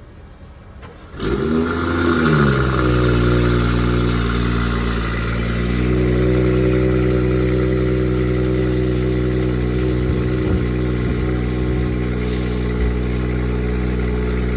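A 2018 BMW 540i's turbocharged 3.0-litre inline-six, modified with full bolt-ons, cold-starting: it cranks and fires about a second in, flares up in revs and drops back within a second or two, then settles into a steady fast cold idle.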